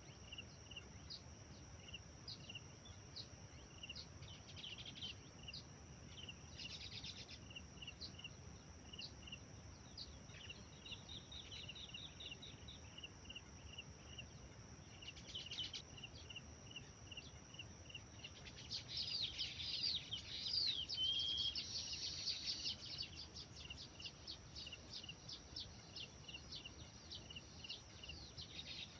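Small songbirds chirping: one bird repeats a short high chirp about twice a second, others add quick flurries of notes, and a louder stretch of fast, varied song comes about two-thirds of the way in. A steady high hiss runs underneath.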